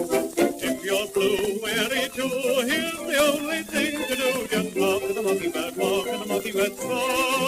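1920s dance orchestra playing an instrumental passage on an old 78 rpm record, with a high, wavering melody line above the band.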